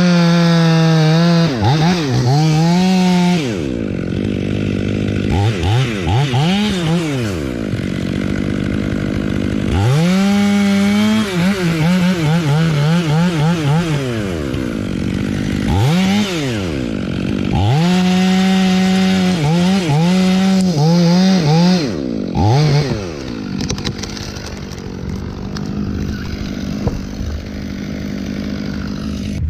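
Chainsaw running hard and cutting, its engine pitch dropping under load and recovering again several times. About two-thirds of the way through it turns quieter and rougher.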